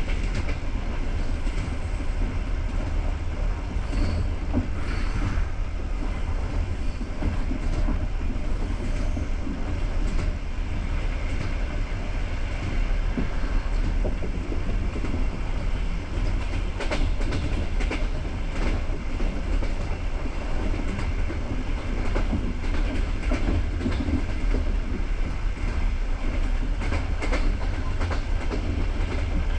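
Passenger train car running along the track: a steady low rumble of wheels on rails, with a few scattered sharp clicks as the wheels pass over rail joints.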